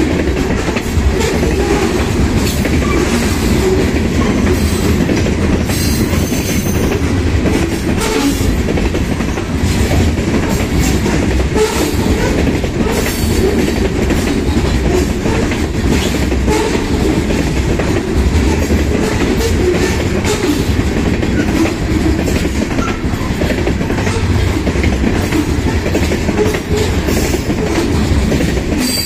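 Freight train's covered hopper cars rolling past close by: a steady, loud rumble of steel wheels on rail with irregular clicks and clanks from the wheels over the track.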